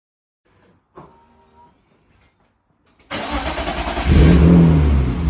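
BMW S50 inline-six in an E30 starting up after its rebuild: after a faint click, it catches suddenly about three seconds in, revs once, then keeps running.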